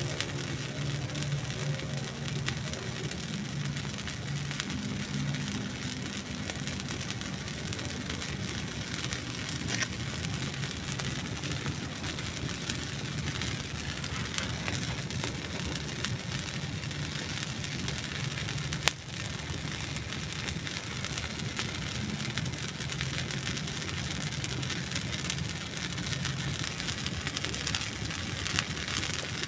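Wood fire burning, with dense small crackles and pops over a steady hiss and a low rumble. One sharp, loud pop comes about two-thirds of the way through.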